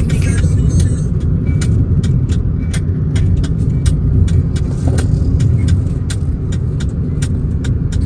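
Car driving, heard from inside the cabin: a steady low rumble of engine and road noise, with many short light clicks or knocks scattered through it.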